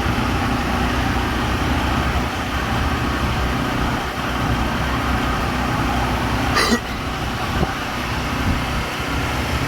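Steady drone of an engine running, with one short sharp knock about two-thirds of the way through.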